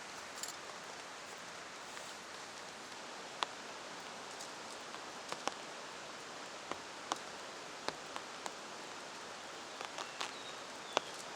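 Steady rain hiss with about a dozen sharp, irregularly spaced drops striking a nearby surface.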